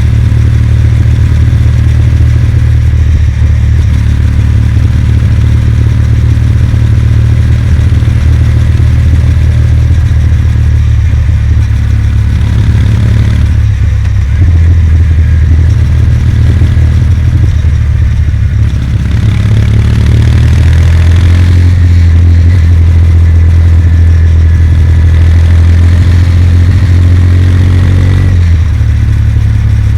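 Kawasaki W800's air-cooled parallel-twin engine running steadily under way, with a strong low note. The pitch shifts a few times: about halfway through, again around two-thirds of the way, and shortly before the end.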